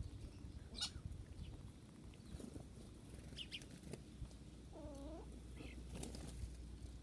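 Birds outdoors: a few short, high chirps with light tapping and rustling, and one short rising-and-falling call about five seconds in.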